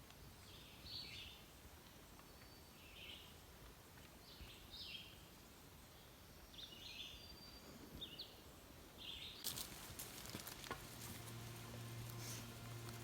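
Faint songbird chirps, short high calls every second or two, over quiet forest background. Near the end come a few sharp clicks, then background music with low steady notes begins.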